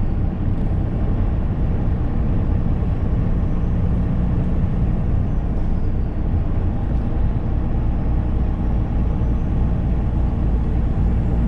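Semi truck driving, its diesel engine and road noise droning steadily inside the cab, with a low hum that comes and goes.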